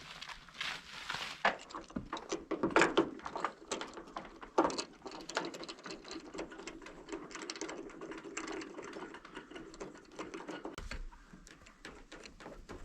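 Rapid, irregular mechanical clicking and rattling, with a few louder knocks in the first five seconds and a low steady hum from about four to eleven seconds in.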